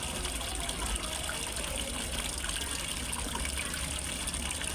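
Water trickling and splashing steadily into a fish pond, as from a small waterfall, with a low rumble beneath it.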